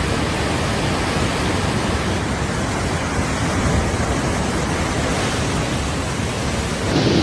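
Steady rushing noise of a river in flood, its fast, churning water filling every pitch with no distinct events.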